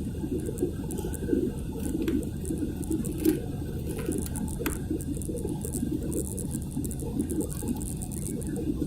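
Steady low rumble of cabin noise inside an Airbus A320, with scattered light clicks and rattles.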